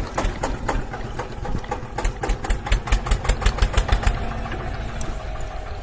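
Small engine of a DIY mini tractor chugging along at a steady pace, an even run of beats about six a second.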